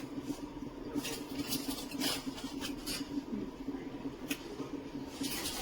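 Light clicks and knocks of a stovetop moka pot being handled, scattered through the middle seconds, over a steady low hum.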